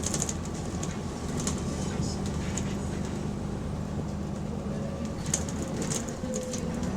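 A bus's diesel engine running under way, heard from inside the bus: a steady drone with a hum, and scattered sharp ticks and rattles over it. The bus has an exhaust leak.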